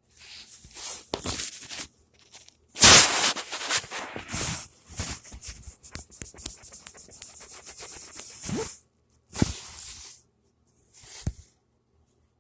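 Irregular bursts of rustling and crackling with many sharp clicks, loudest about three seconds in, and a few dull thumps near the end.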